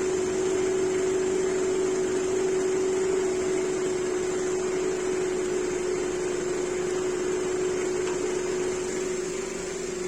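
2008 Toyota Camry engine running at idle, a steady hum with a steady whine over it. The alternator is charging only 12.3 volts instead of over 14, which the mechanic takes as the alternator not charging properly.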